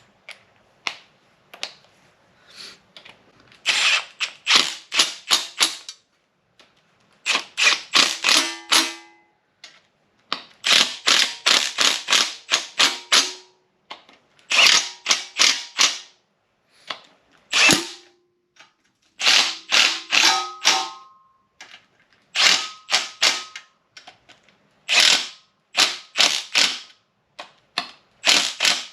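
Hand ratchet wrench clicking in quick runs of strokes, in repeated bursts with short pauses between, as 13 mm bolts are run down on a 6.0 LS engine.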